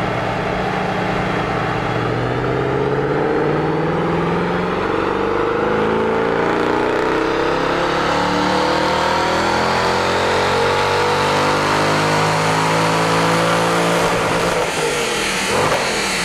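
Porsche 911's flat-six engine on its stock exhaust making a full-power dyno pull: the revs climb slowly and steadily for about fourteen seconds under load, then the throttle is lifted near the end.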